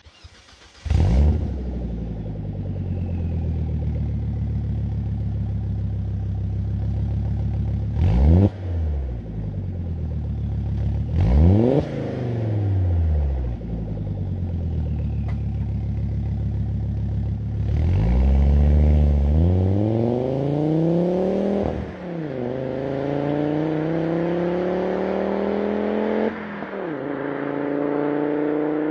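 1999 Volvo V70's B5204T4 2.0-litre turbocharged five-cylinder engine starting up about a second in and settling to an idle, revved twice. It then accelerates in gear with a rising pitch, dropping sharply twice as the manual gearbox is shifted up.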